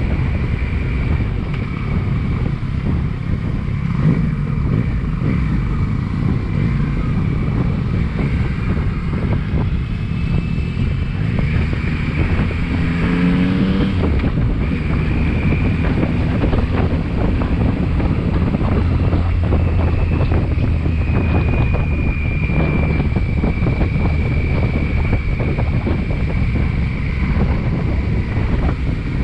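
Motorcycle engine running while riding, under heavy wind noise on the microphone. About halfway through, the engine revs rise briefly.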